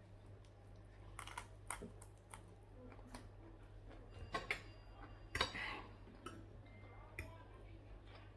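Cutlery clinking and scraping against a plate of food while eating, as scattered soft taps and clicks, with a few louder clinks about halfway through.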